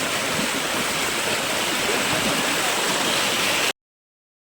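Steady rush of flowing rainwater, an even noisy hiss that cuts off suddenly to silence near the end.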